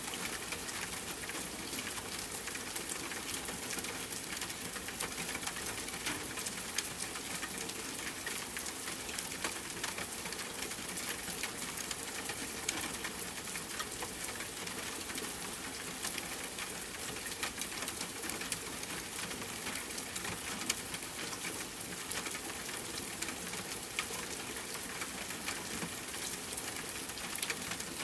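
Steady rainfall, a dense patter of many small drops striking a surface.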